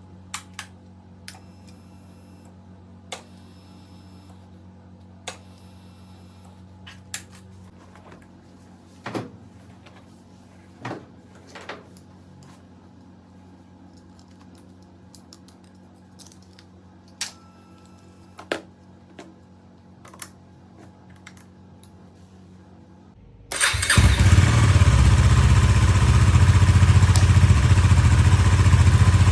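Scattered sharp clicks and clatters over a faint steady hum, then about 23 seconds in the KTM Duke 250's single-cylinder engine, started with a jump starter, catches abruptly and runs loud and steady.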